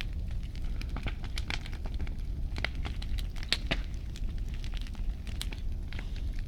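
Large wood bonfire crackling, with irregular sharp snaps and pops over a steady low rumble of burning.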